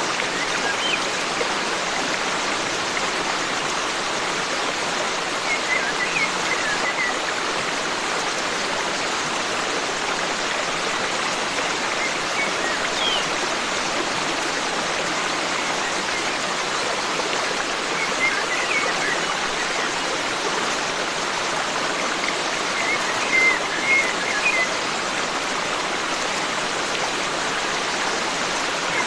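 Forest stream running steadily, a continuous rush of water, with small birds chirping briefly a few times in the background, most clearly about three-quarters of the way in.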